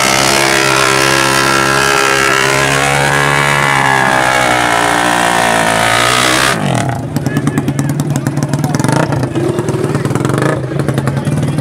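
Race engine held at high revs, loud and steady, then dropping off sharply about six and a half seconds in to a choppy, pulsing idle.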